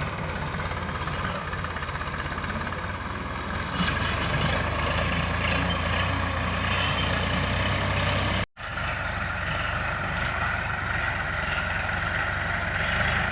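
Sonalika DI 745 tractor's three-cylinder diesel engine running steadily, growing louder about four seconds in. The sound cuts out for an instant just past the middle, then the engine carries on.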